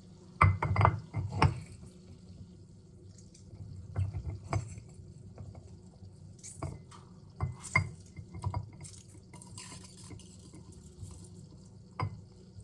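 Glassware and kitchen utensils being handled: scattered clinks and knocks in small clusters, with some dripping liquid.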